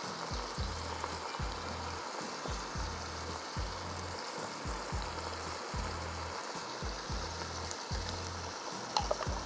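Sliced onions and green capsicum sizzling as they fry in a pot: a steady hiss, with a low thudding underneath about twice a second.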